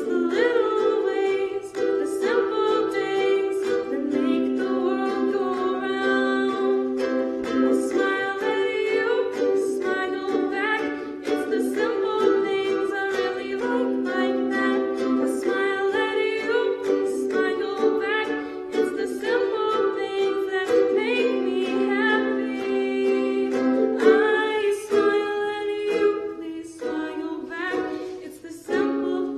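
A live song: a singing voice with a strummed string instrument accompanying it.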